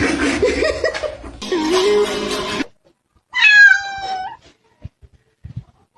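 A domestic cat gives one loud meow about a second long, its pitch sliding down and lifting slightly at the end, about three seconds in. It is preceded by a couple of seconds of dense, noisy sound, and a few faint clicks follow.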